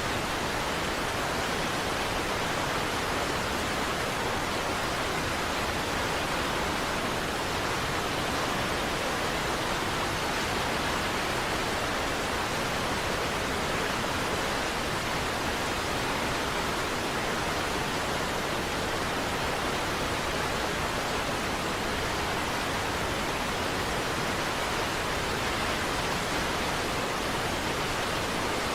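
Niagara Falls: the steady, unbroken rush of a large waterfall, an even hiss of falling water with no changes or breaks.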